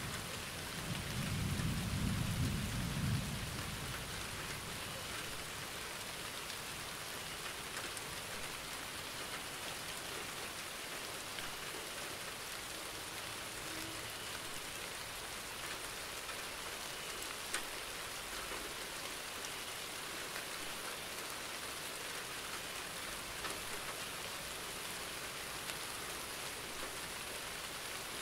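Steady rain falling, an even hiss throughout, with a low roll of thunder in the first few seconds.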